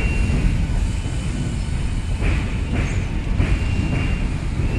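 Electric passenger train running across a steel truss railway bridge: a steady rumble, with a faint thin high-pitched tone that comes and goes and a few short sharper bursts.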